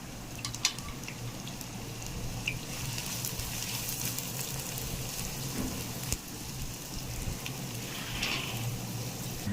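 Sliced onions sizzling as they fry in hot oil in a pan, a steady hiss with a few sharp clicks.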